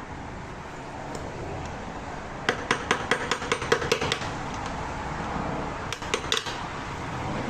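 Light metallic taps and clinks of hand tools on metal engine parts: a quick run of about a dozen in under two seconds, then a few more about six seconds in, over a steady low background hum.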